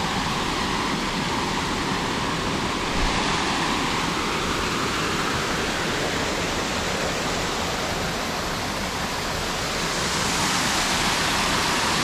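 Steady rush of a forest stream cascading over boulders, growing a little louder about ten seconds in.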